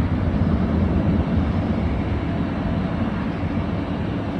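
Jet airliner engines rumbling at a distance, a steady deep roar that swells in the first second and then slowly eases off.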